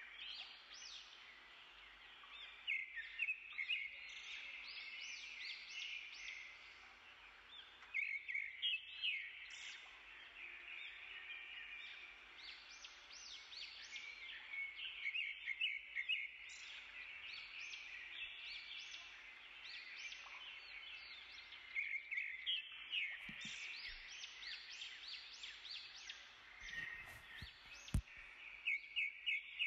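Small birds chirping: clusters of quick, high chirps every few seconds, with a single sharp knock near the end.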